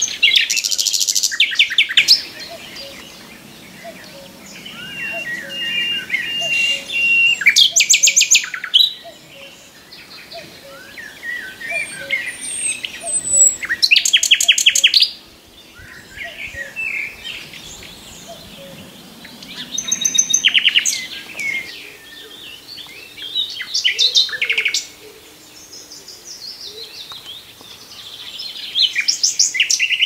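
Common nightingale singing: loud phrases of rapid repeated notes come every few seconds, with softer warbles and whistled notes in between.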